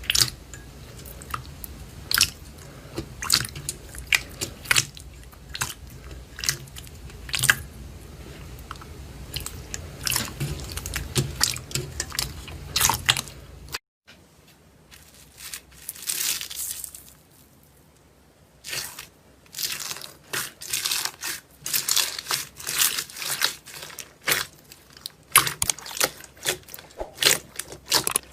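Slime being squeezed and worked by hand, giving off irregular sticky crackles, pops and crunches. About halfway through there is an abrupt cut, where a low background hum drops out and the crackling carries on.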